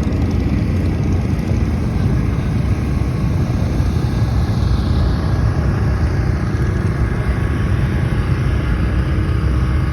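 Motorboat engine running steadily underway, a loud, even low rumble with rushing noise over it.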